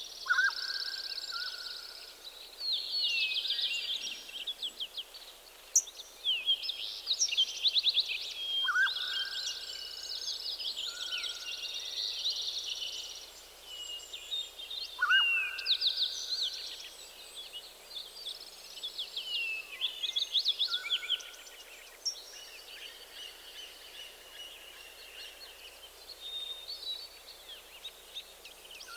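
Several forest songbirds singing together in a morning chorus: overlapping high chirps, quick trills and down-sweeping notes, with a few lower plain whistled notes, over a soft steady hiss. The singing thins out to scattered faint calls about two-thirds of the way through.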